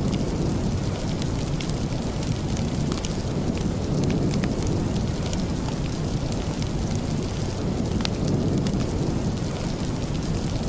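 Steady rain with a deep, even rumble, sprinkled with small sharp ticks.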